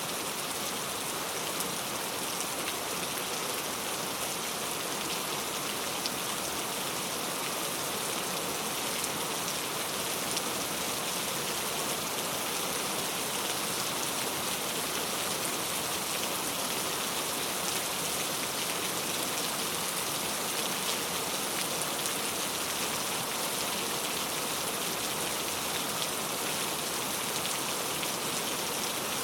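Steady rain falling, an even hiss with many small drops pattering on surfaces.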